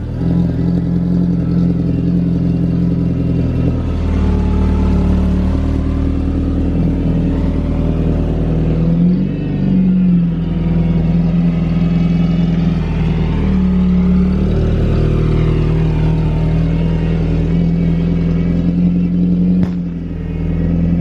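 Car engine running steadily while driving, its pitch shifting slightly a few times, with a short rise and fall about nine to ten seconds in.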